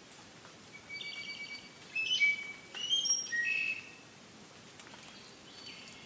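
A songbird singing one phrase, a short trill followed by several loud, clear whistled notes, with a softer note near the end, over a faint steady forest hiss.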